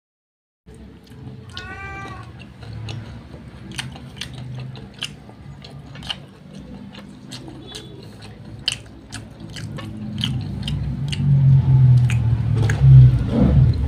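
Fried chicken being eaten by hand: chewing and smacking with many sharp, crisp clicks. About two seconds in there is one short high call that rises and falls, like a meow, and a low hum grows louder over the last few seconds.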